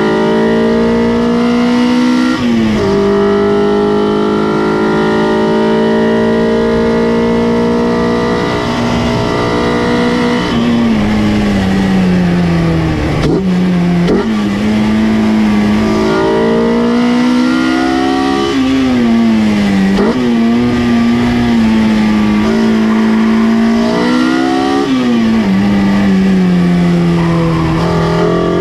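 Honda K-series inline-four in a K-swapped Mazda Miata under hard acceleration at high revs, heard from inside the cabin. The pitch climbs slowly through long pulls, broken by sharp drops at upshifts. Around the middle it falls away off the throttle, with quick rev blips on the downshifts, then pulls up again.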